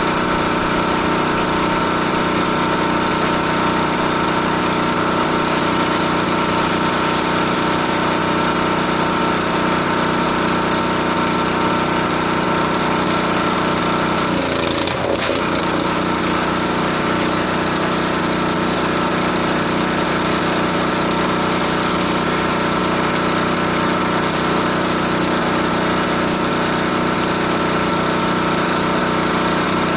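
Gas-engine pressure washer running steadily, with a constant engine note and a hiss of spray. About halfway through, the note wavers briefly before settling back.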